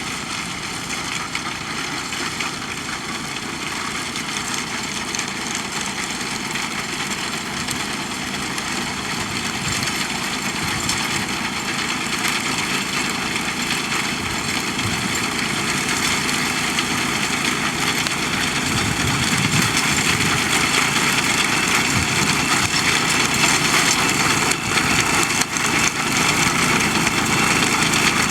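Tractor engine running steadily while pulling a binder through standing wheat, getting gradually louder.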